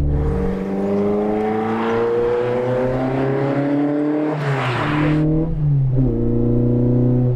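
Fiat Ritmo Abarth 130TC, Group A-modified, accelerating hard: its twin-cam four on twin Weber carburettors, with a worked head, bigger cams and a fully open exhaust, rises steadily in pitch for about four seconds and then falls in a gear change. After that it is heard from inside the cabin, where the note falls again and settles at steady revs.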